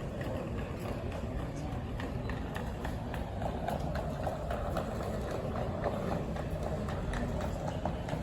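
Engine oil glugging as it is poured into the engine's filler neck, with a run of small irregular clicks and gurgles over a low rumble.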